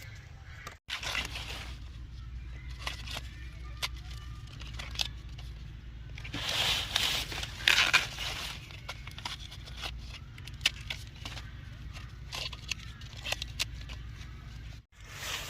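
Dry corn leaves and husks rustling and crackling, with many short snaps and tearing sounds from ears of corn being broken off and handled. A denser, louder stretch of rustling comes about halfway through, over a steady low rumble.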